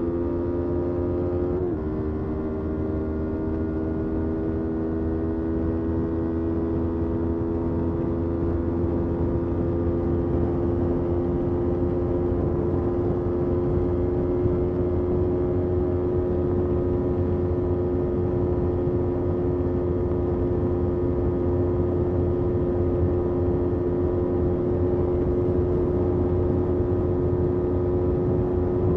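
Yamaha R3 parallel-twin engine running under way. About two seconds in, a quick upshift drops the pitch; then the revs climb slowly and steadily, over a steady rush of wind.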